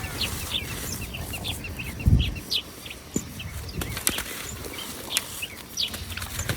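Dry red dirt crumbling and dropping onto wet paste in a steel tub: crackling and sharp clicks, with a dull thump about two seconds in. Birds chirp throughout.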